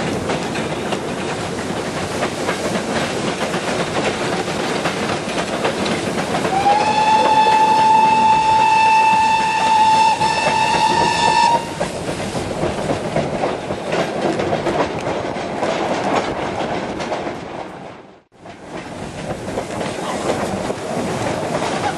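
Goods train wagons rattling and wheels clacking over rail joints, heard from the guard's van. The steam locomotive's whistle sounds one long note about a third of the way in, ahead of a tunnel. The sound dips almost to nothing for a moment near the end.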